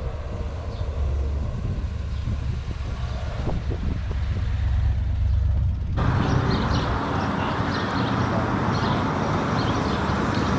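Car engine running with a steady low rumble; about six seconds in the sound switches abruptly to a louder, fuller noise.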